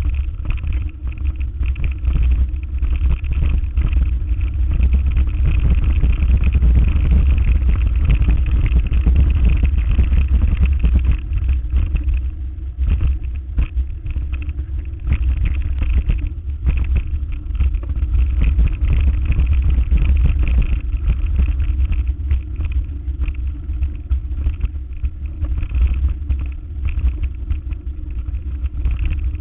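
Motor vehicle on the move: a continuous, loud low rumble of engine and road noise that swells and eases a little.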